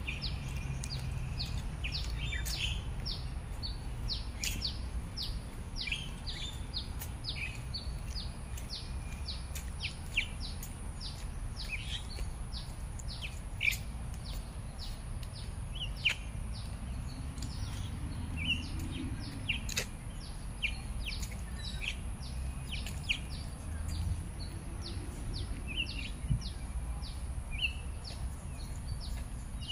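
Small birds chirping in the trees: many short, quick downward chirps repeating throughout, over a steady low rumble of background noise.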